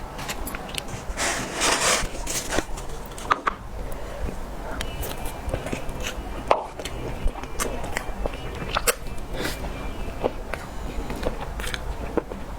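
Close-miked eating of cake: chewing with scattered wet mouth clicks and smacks, and a longer rustling stretch about a second or two in.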